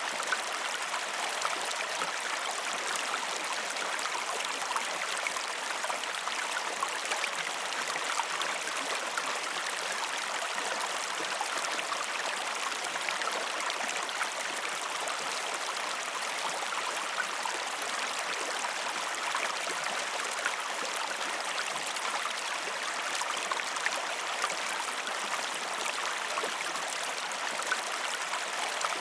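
River water rushing and splashing over rocks, with many small splashes and gurgles; a steady, unbroken flow with little low rumble.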